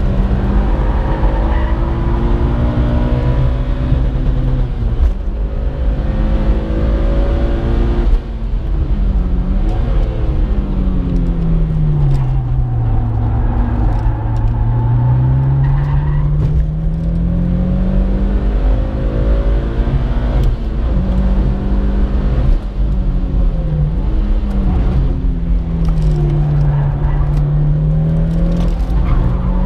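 Mitsubishi Lancer Evolution IX's turbocharged four-cylinder engine heard from inside the cabin under hard track driving, over steady road and wind noise. Its pitch holds high, then falls as the car slows for corners and climbs again under acceleration, with the longest, deepest dip about midway and shorter dips near the end.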